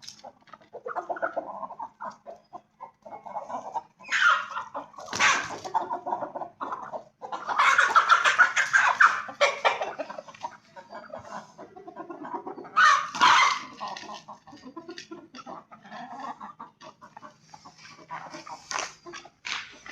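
Aseel chickens clucking and calling, in irregular loud bursts with short clicks between them.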